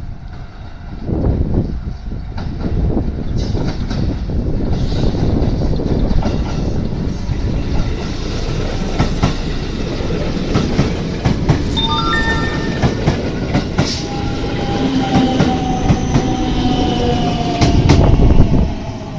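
Electric commuter train running into the station at speed, its wheels clacking over the rail joints. From about twelve seconds in a whine sets in and slowly falls in pitch as the train brakes.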